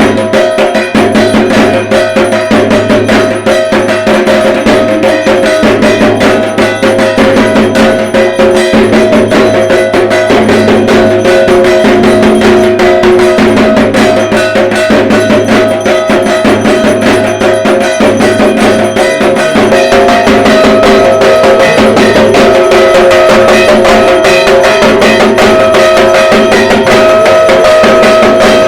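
Dhak, the large Bengali barrel drum of Durga Puja, beaten with sticks in a fast, dense, unbroken rhythm, with a steady ringing tone held over the strokes.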